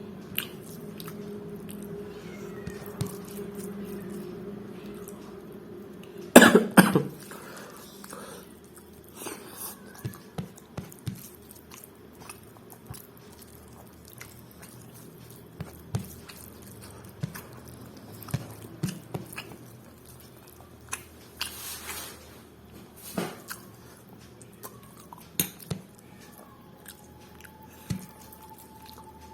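A person eating, with close chewing and scattered small clicks and mouth sounds. One loud cough comes about six seconds in. A low steady hum runs under the first six seconds.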